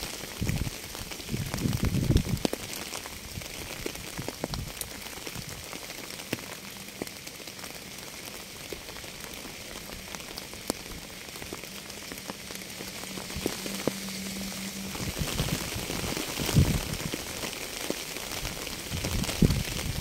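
Steady rain falling, with many individual drops ticking through the hiss. Deeper low surges swell in briefly near the start, about three-quarters through and again near the end.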